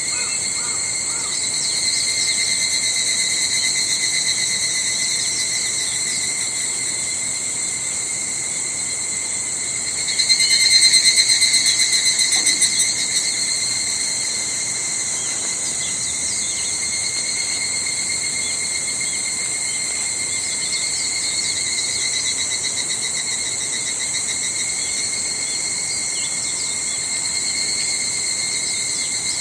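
Cicadas calling in a steady, shrill chorus: evening cicadas (higurashi) and Kaempfer cicadas (niiniizemi). One louder, rapidly pulsing call swells about ten seconds in and fades away within a few seconds.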